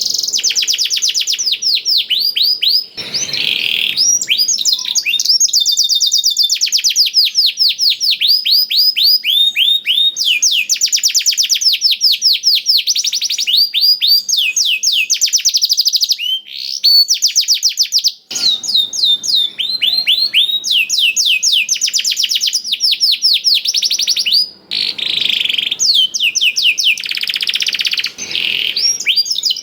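Domestic canary singing a long, continuous song of fast trills made of rapidly repeated falling notes, with brief breaks between phrases; its repertoire is filled with phrases learned from the black-throated canary.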